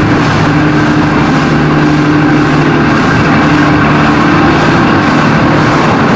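XPT diesel passenger train running past along the platform: a loud, steady rumble of the passing carriages with a low steady engine hum underneath.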